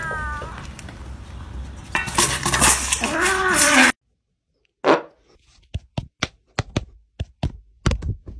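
A cat's short falling meow, then loud hissing with a wavering cat yowl over it, cut off suddenly; after that, a string of sharp, irregular clicks.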